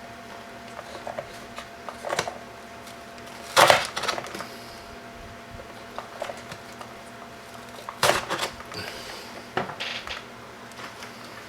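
Plastic zip ties being handled and pulled tight: scattered small clicks and a few brief rasping zips, the loudest about three and a half seconds and eight seconds in.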